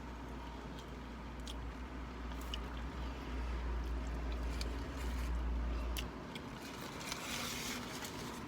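Chewing and biting into a loaded burger: wet mouth sounds with small clicks. A low steady rumble underneath stops about six seconds in.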